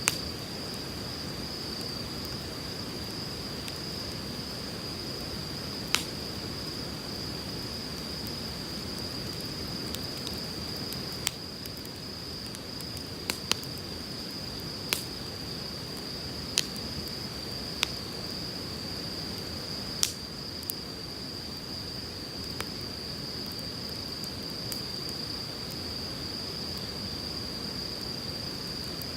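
Firewood crackling with sharp single pops every second or few, over the steady rush of a flowing river and a steady high-pitched drone.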